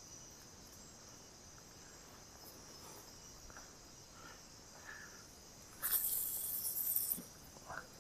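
Steady chorus of crickets and other insects in the riverside forest. About six seconds in, a loud hissing rustle lasts just over a second, and a few short faint chirps come and go.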